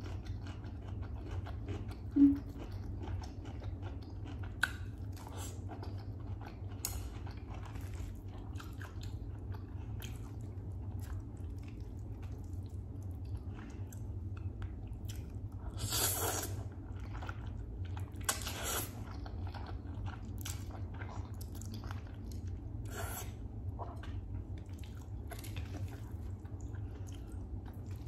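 Close-miked eating: wet chewing and crunching of steamed vegetables and instant noodles, with many small clicks and crackles. There is a brief loud pop about two seconds in, and two longer noisy bursts near the middle. A steady low hum runs underneath.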